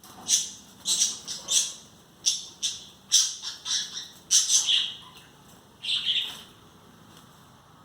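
Pet parrot giving a rapid run of short, high calls, fifteen or so in quick clusters, with a last pair about six seconds in.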